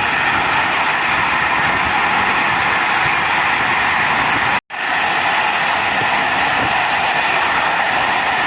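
Steady rumble and hiss of a train running on the rails, dropping out for a split second about halfway through.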